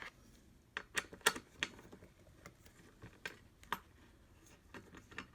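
Small irregular clicks and taps of a screw and nut being worked by hand into a hoverboard kart's metal frame, about a dozen scattered ticks over a few seconds.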